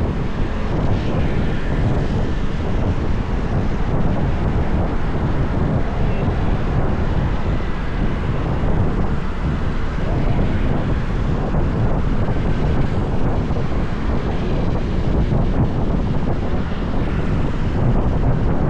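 Steady rush of wind on the microphone and road noise from a motorbike riding at speed on a highway, heaviest in the low rumble.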